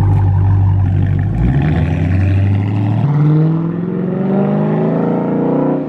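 A car engine running, then revving up, its pitch stepping higher twice and then climbing steadily as the car accelerates.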